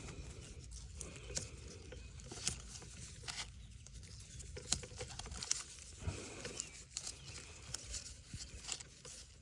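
Hands working on a coaxial cable splice: light, irregular clicks and crackles of handling, over a steady low rumble.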